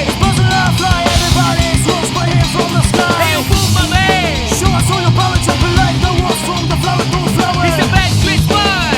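Punk rock band recording of bass, electric guitars and drum kit playing loud and dense, with many short high notes sliding up and down over it.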